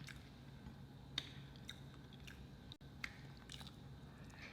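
Faint chewing and mouth sounds of someone eating close to the microphone: a scattering of soft wet clicks, with two sharper ones about a second in and about three seconds in.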